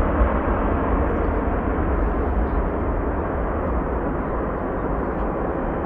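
Jet airliner engine noise, a steady rushing sound that slowly fades as the aircraft moves away.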